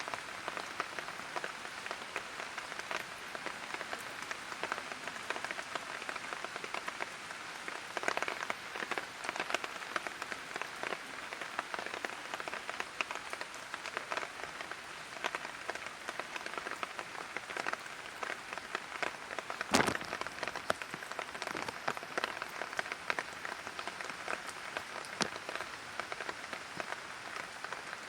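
Light rain falling on a hard surface: a steady patter of many small drops, with one sharper, louder drip about twenty seconds in.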